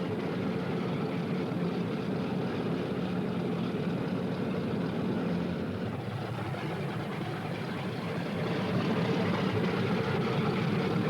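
Propeller aircraft engines droning steadily, easing off a little midway and building again near the end.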